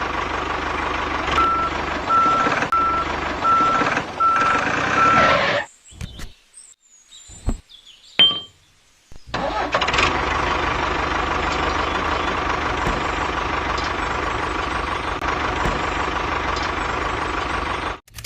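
A small motor-driven machine running steadily, with a string of evenly spaced beeps over the first few seconds. It stops for about three seconds near the middle, then runs steadily again until it cuts off suddenly.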